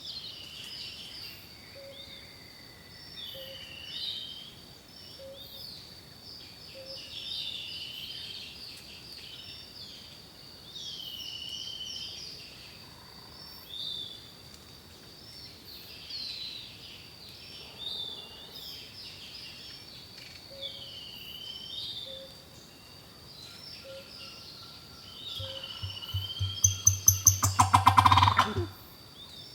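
Songbirds singing, one repeating a short swooping whistled phrase every couple of seconds over a steady thin high tone. Near the end, a loud rapid rattle of clicks lasts about three seconds.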